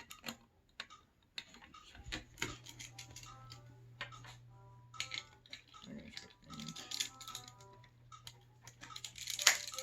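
Plastic Lego bricks clicking and clattering as pieces of a model truck are handled and pulled apart, with a louder clatter near the end.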